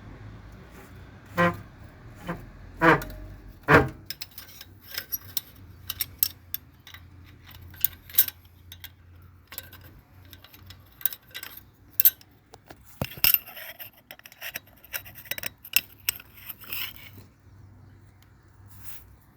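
Metal clutch parts being handled, giving sharp irregular clicks and clinks, with three louder knocks in the first four seconds, over a faint low hum.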